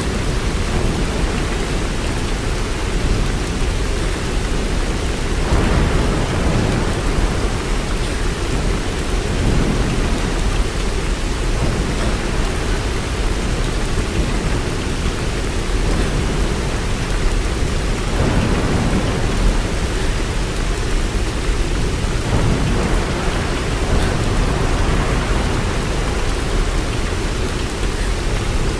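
Steady rain with a deep low rumble underneath that swells now and then.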